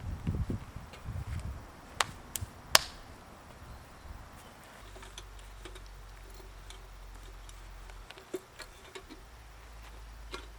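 A few sharp clicks or knocks: three come close together, the last and loudest nearly three seconds in. They are followed by faint, scattered ticks.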